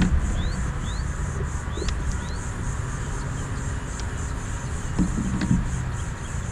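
Short rising bird chirps repeat every half second or so for the first couple of seconds over a steady, rapidly pulsing insect buzz and a low rumble. There are dull knocks at the start and about five seconds in.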